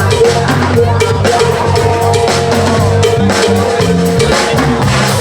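Live band playing an instrumental passage: drum kit keeping a steady beat under bass notes and a long held note.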